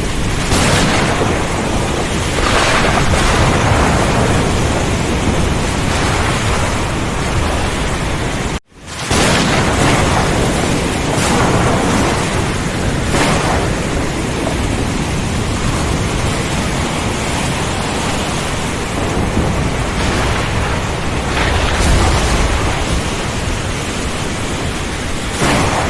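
Heavy rainstorm: dense, steady rain and wind with several swells and a deep roll of thunder toward the end. About a third of the way in the sound cuts out for a split second and fades back in.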